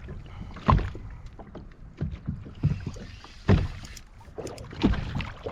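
Irregular dull knocks on the hull of a small polyethylene boat, about five in a few seconds, over a low rumble with light wind on the microphone.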